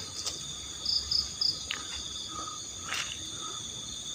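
Night insects, crickets trilling steadily in a high-pitched chorus, with a quick run of three chirps about a second in and a couple of faint clicks.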